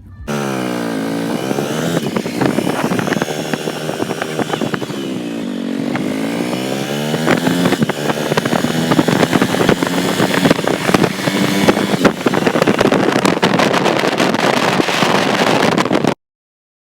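Small petrol engine running and revving. Its pitch falls over the first two seconds, then rises and falls again, with a lot of rattling and clicking on top. The sound breaks off abruptly near the end.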